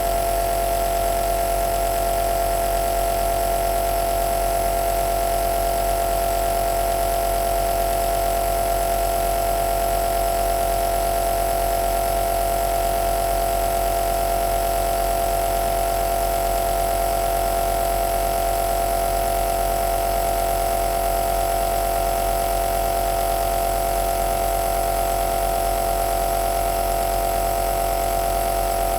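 Compressor nebulizer running steadily: a constant motor-and-pump hum with one strong, steady mid-pitched tone over a low drone.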